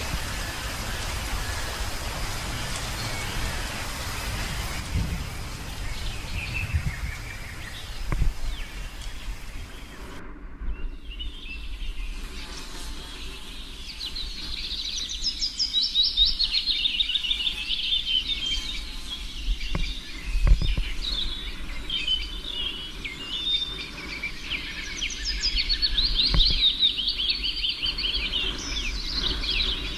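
Wild birds singing, many quick chirping phrases one after another, starting after an abrupt change about ten seconds in. Before that, a steady rushing noise with no birds standing out.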